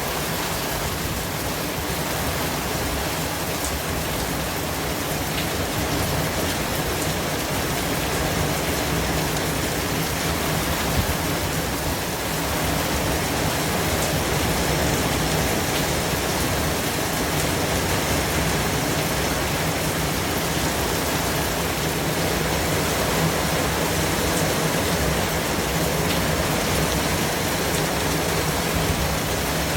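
Steady white noise: an even, unbroken hiss across bass and treble, growing slightly louder about halfway through.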